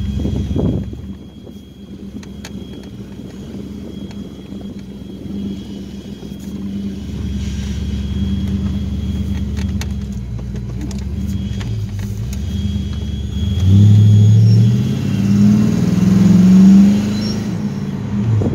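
Ford Mustang GT's Cobra V8 with GT40 heads, heard from inside the car, running steadily as the car rolls at low speed. Near the end the engine note turns loud and rises in pitch for about four seconds as the car accelerates.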